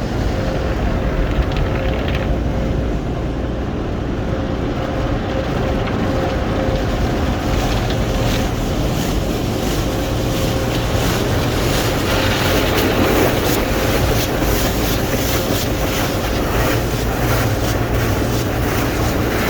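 An automatic car wash running, heard from inside the car: a loud, steady rush of water and machinery with a faint steady hum. From about eight seconds in, many quick hits land on the car.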